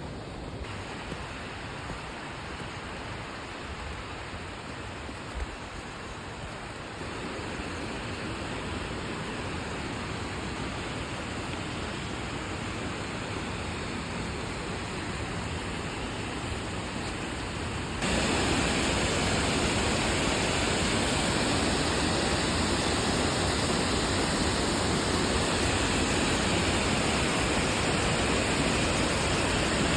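Steady rush of running water, an even hiss and roar with no distinct events. It gets louder twice, the second time abruptly about two-thirds of the way through.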